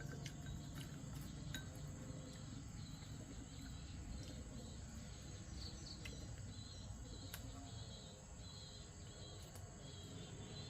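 Faint outdoor ambience of small chirping calls, insects or birds, over a low steady background, with a few light clicks.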